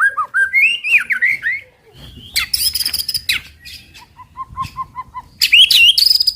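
White-rumped shama singing a loud, varied 'tembakan' song burst of the kind used to provoke other shamas: quick rising and falling whistles, harsh rasping notes, and a little past halfway a run of short, evenly spaced whistled notes at about seven a second.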